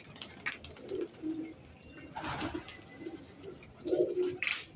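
Domestic pigeons cooing: a string of short, low calls repeated several times, with a few brief noises in between.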